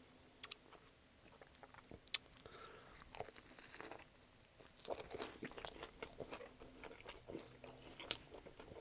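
A person bites into a piece of grill-pressed sub sandwich and chews it, with crunches of the toasted crust. The bite lands about three seconds in, followed by faint, irregular chewing.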